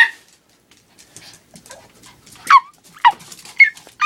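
Dog giving four short, high whimpering yips that each fall in pitch, about half a second apart, starting about two and a half seconds in, during rough play between two dogs.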